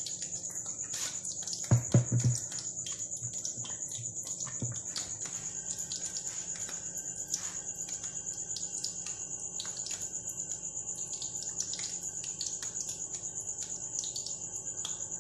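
Marinated chicken wings frying in a pan of hot oil, the bubbling oil giving sparse pops and crackles over a steady high-pitched whine. A few low thumps about two seconds in.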